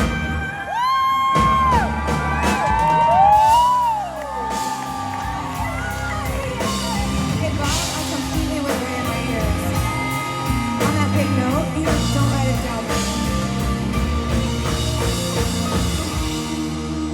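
Live pop-rock band with a woman singing lead: a high, sliding vocal run over the first few seconds, then the band plays on with a steady drum beat.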